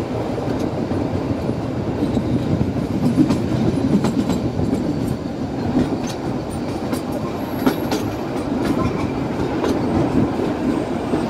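Narrow-gauge Kalka-Shimla Railway train coaches running along the track: a steady rumble of wheels on rail with scattered clicks over the rail joints.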